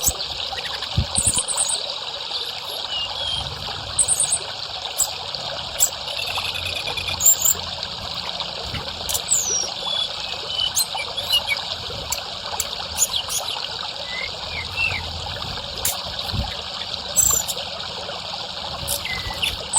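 Steady trickle of running water, with a bird's short high chirps and whistles scattered over it every second or so.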